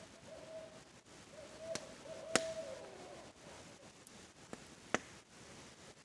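An owl hooting, a run of hoots over the first three seconds, the last one sliding down. Sharp campfire crackles, the loudest about two and a half seconds in and another near five seconds, over a steady faint hiss.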